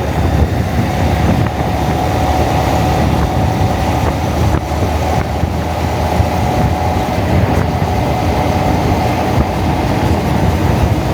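Wind buffeting the camera's microphone over the single-cylinder engine of a Honda Monkey motorcycle running at road speed, a steady loud rumble with a faint steady whine through most of it.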